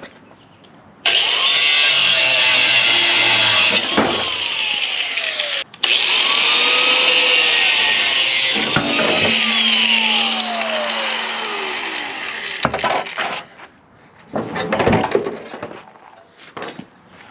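Power tool cutting into a car's sheet-metal body at the spot welds, a loud, harsh steady whir that starts about a second in, breaks off briefly near the middle, with its pitch sagging and sweeping at times, and stops a few seconds before the end, followed by a few light knocks.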